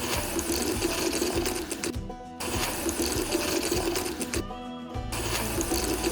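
A small electric motor whirring steadily, with background music. The motor sound cuts out briefly twice, once about two seconds in and again near the end.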